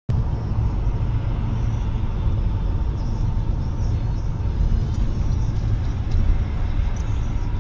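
Steady low rumble of a car driving on the road, as picked up by a dashcam.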